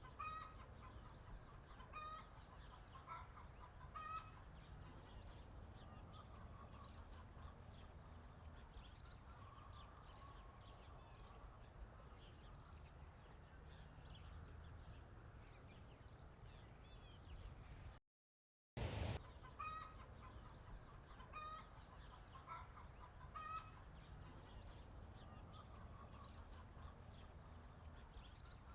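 Faint farmyard ambience with chickens clucking now and then in short pitched calls. The sound drops out completely for a moment around 18 s, then comes back with a brief louder noise.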